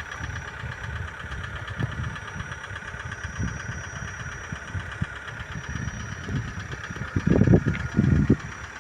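A vehicle's engine running steadily, with low, uneven rumbling that swells louder near the end.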